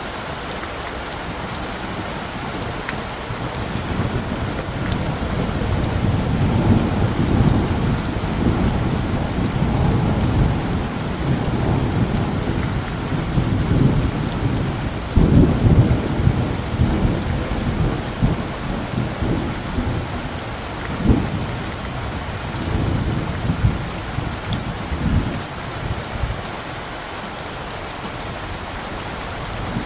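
Steady rain falling, with a long roll of thunder that builds from about four seconds in, is loudest around the middle, gives one sharper clap a little later, and dies away near the end.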